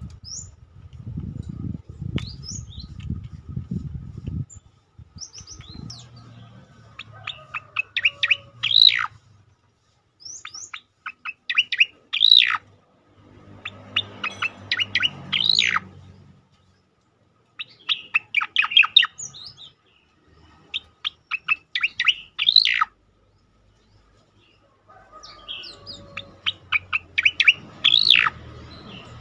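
Cica-koreng (striated grassbird) singing its burst song: about six phrases of rapid chipping notes, each ending in a louder up-and-down whistled note, every three to four seconds. A low rumble underlies the first few seconds.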